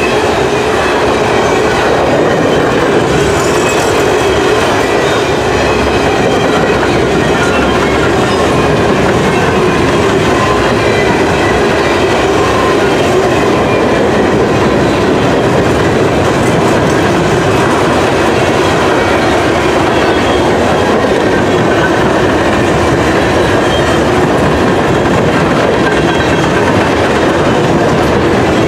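Covered hopper cars of a loaded potash freight train rolling past close by: a steady heavy rumble of wheels on rail, with clicking over rail joints and thin squealing tones from the wheels.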